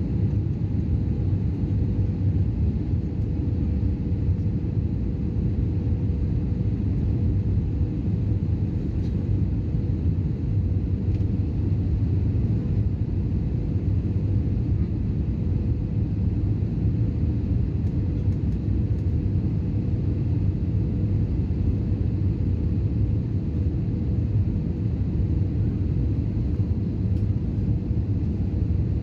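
Cabin noise inside an Airbus A320 in flight: a steady, even rumble of engines and airflow with a faint steady hum above it.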